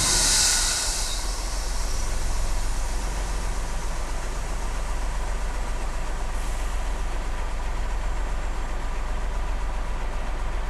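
Radio-controlled truck idling with a steady low engine hum. A short burst of high hiss comes right at the start and a fainter one about six seconds in.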